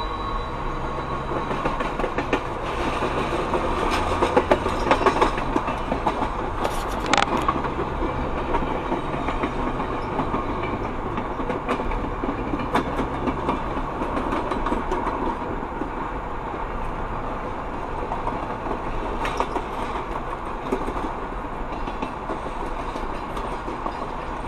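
Passenger railcars rolling along the track, their wheels clicking over rail joints, heard from a car driving alongside with the car's own road rumble underneath.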